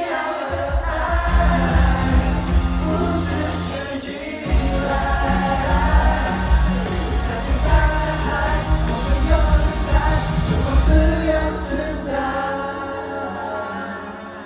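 Live pop ballad from a male vocal group, sung over a band through arena loudspeakers and heard from the crowd. The music dies down near the end.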